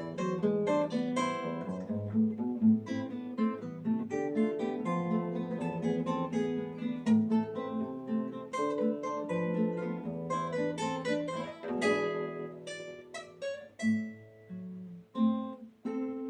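Solo acoustic guitar playing the closing bars of a piece. A busy run of plucked notes thins out into a few separate chords with pauses between them, and a final chord near the end is left ringing.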